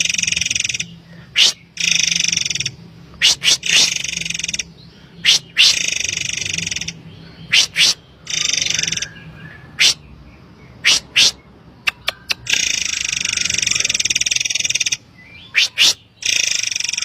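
Forktail (murai air) calls: harsh, buzzy rasping calls about a second long, repeated again and again, alternating with short, sharp, shrill high-pitched notes, over a faint low hum.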